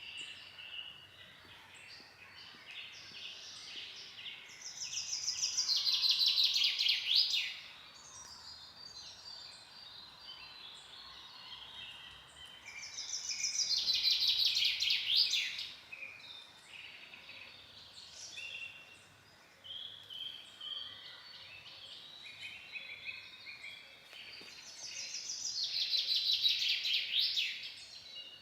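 Forest birds singing. One bird repeats a loud song phrase about every ten seconds, three times; each phrase lasts about two and a half seconds, grows louder and ends in quick falling notes. Softer chirps and calls fill the gaps.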